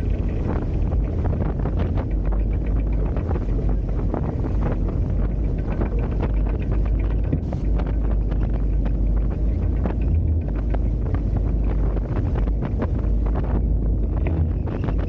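Heavy wind noise on the microphone, a steady low rumble, with water splashing and rushing along the hulls of a Hobie Tiger F18 catamaran under sail.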